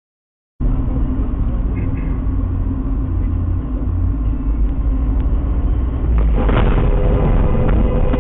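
Car interior and road noise picked up by a dashcam: a steady low rumble of the engine and tyres. About six seconds in, a sudden louder rush of noise, followed by a steady two-note tone that holds to the end.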